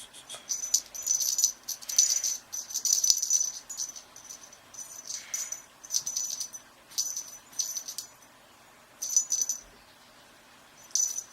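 A small jingle bell rattling in about nine short irregular bursts of clicky, high ringing jingles, each lasting a second or less, with gaps between them.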